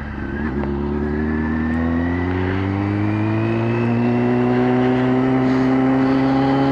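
Motorcycle engine under way, its pitch climbing slowly and evenly as the bike accelerates, after a brief dip about half a second in.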